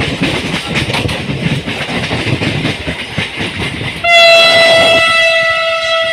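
Train running on the rails with a dense rattle and clatter of wheels. About four seconds in, a train horn cuts in loudly and holds one steady note.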